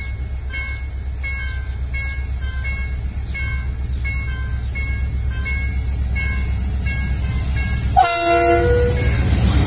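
TCDD DE 33000-class diesel-electric locomotive approaching with a freight train, its low engine rumble steadily growing louder, and a short blast of its multi-tone horn about eight seconds in. Until just before the horn, a chiming signal tone repeats about every three-quarters of a second over the rumble.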